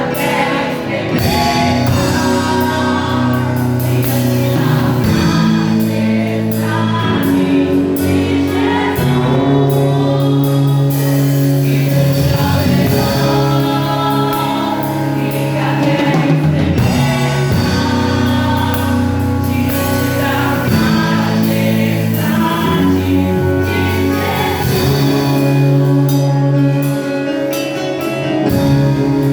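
Gospel worship music: a congregation or worship group singing a praise song over instrumental accompaniment.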